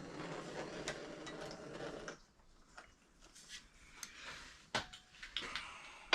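A steady rushing noise cuts off suddenly about two seconds in, followed by a few scattered light clicks and knocks.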